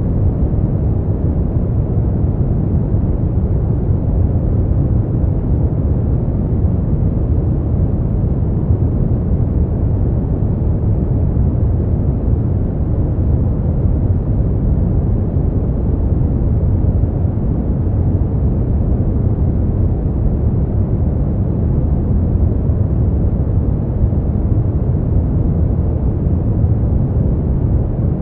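Brown noise: a steady, even, deep rumbling hiss, strongest in the low end and with little treble, unchanging throughout.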